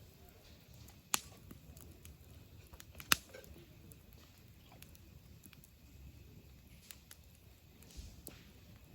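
Wood campfire crackling, with two sharp pops, about a second in and about three seconds in, and fainter crackles between.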